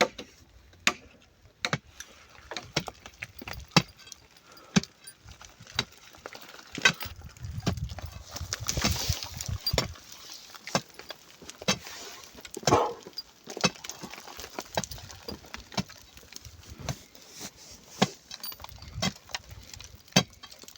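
A series of sharp, irregular knocks, roughly one or two a second, with a rougher, noisier stretch about a third of the way in.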